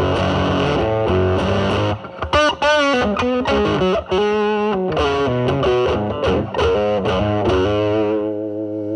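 Electric guitar (Telecaster) through a silicon-transistor Fuzzrite-style fuzz pedal into a Marshall amp's drive channel, the fuzz cleaned up to a mild grit. About two seconds of strummed chords give way to single-note lead lines with string bends and vibrato, ending on a held note.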